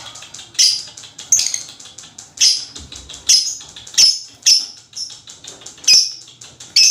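Lovebird chattering: sharp high chirps coming roughly once a second over a fast, dry ticking chatter, the rapid run of calls lovebird keepers call ngekek.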